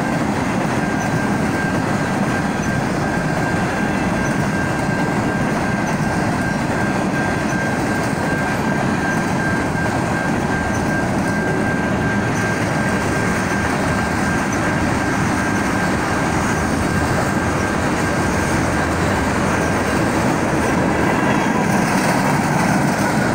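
Freight train of autorack, box and tank cars rolling past a grade crossing: a loud, steady noise of wheels and cars going by. A thin, steady high tone sounds over it and fades near the end.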